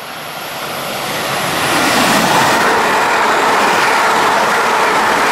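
Two coupled Class 185 diesel multiple units running through a station at speed. The rush of the train builds over about two seconds as it nears, then stays loud and steady as the carriages pass close by.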